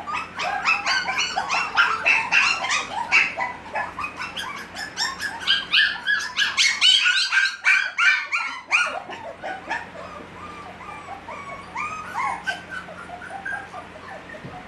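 A litter of six-week-old Havanese puppies whining and yipping: many short, high cries overlapping one another. They thin out after about nine seconds.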